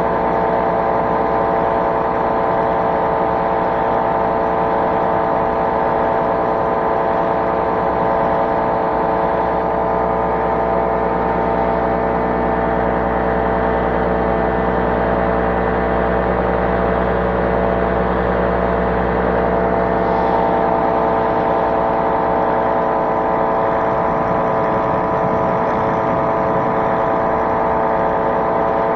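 Propeller engine of a light powered aircraft running steadily at constant power, an even drone with a strong fixed pitch.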